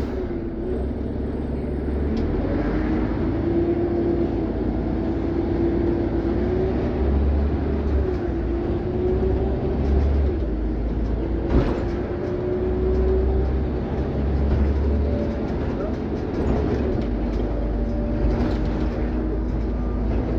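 Scania OmniCity CN94UB city bus driving, its engine and drivetrain running with a steady low rumble and a tone that rises and falls as it speeds up and slows. A sharp knock about halfway through.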